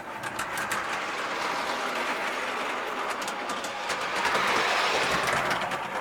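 G scale model train running on 45 mm track, its wheels rattling and clicking over the rails, louder about four seconds in as it comes closest.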